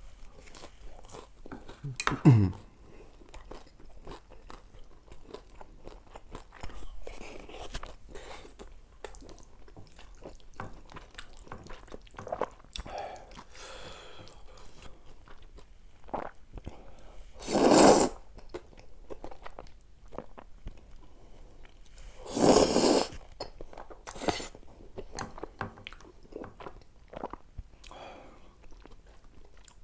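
Close-miked eating: chewing and crunching mouthfuls of pasta and fried rice, with many small wet clicks. A brief falling-pitch sound comes about two seconds in, and two louder noisy bursts of about half a second to a second stand out past the middle.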